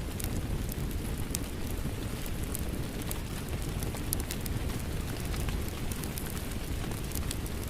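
Steady rain mixed with a crackling wood fire: an even low rush of rain, with scattered sharp crackles and pops from the fire.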